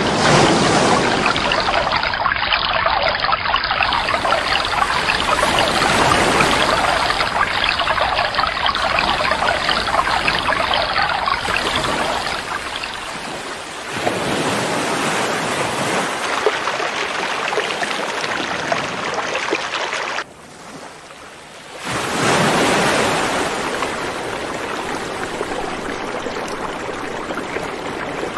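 River water rushing and splashing as a steady loud rush. It shifts suddenly in loudness and tone a few times, dropping away for a couple of seconds about twenty seconds in before returning.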